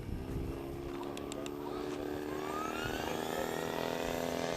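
T-Rex 500 radio-controlled helicopter's motor and rotor running with a steady hum, a whine rising in pitch from about halfway through as the rotor speed climbs.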